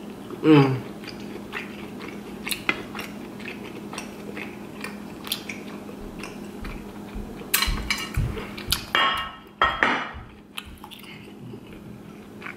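Close-miked eating sounds: lobster meat being chewed with wet clicks and smacks, mixed with clinks of a hand working in a glass dish of Cajun garlic butter. A louder run of chewing noises comes about eight to ten seconds in.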